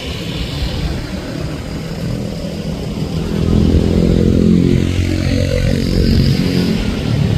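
Airbus A320 jet engines rumbling as the airliner comes in to land. About three seconds in the sound grows louder and a low engine drone bends in pitch.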